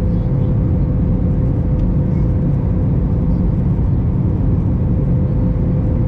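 Steady cabin noise inside an Airbus A321 airliner: a low rumble of engines and airflow with a faint steady hum above it.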